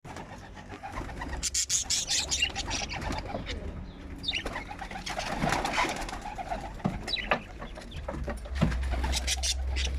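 Bird calls with short chirps and falling whistles mixed with many small clicks and scratches, over a steady low hum.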